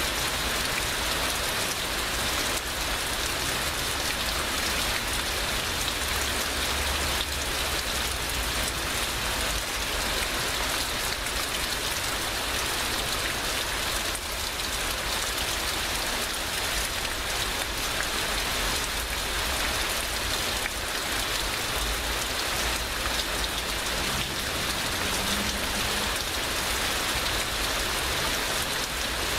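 Heavy rain falling steadily in a downpour, a dense, even hiss of drops on surfaces.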